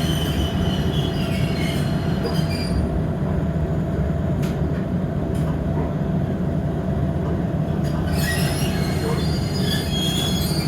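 Inside a Toyama Chihō Railway electric train slowing to arrive at a station. A steady low running rumble plays throughout. High wheel squeal rises near the start and again about eight seconds in, with a couple of sharp clicks in between.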